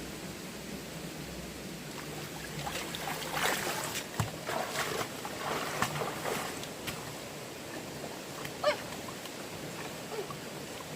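Steady rush of flowing stream water with scattered splashes and knocks, and one brief pitched call from an animal a little before the end.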